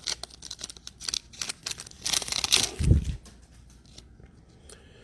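Trading cards and a foil pack wrapper being handled on a table: small crisp clicks and paper-like rustling. The rustle is loudest about two seconds in and ends with a soft thud, then the sound dies down to a few faint ticks.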